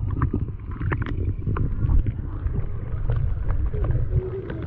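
Wind and water noise rumbling on the camera microphone on a sailboat, with scattered small knocks and splashes.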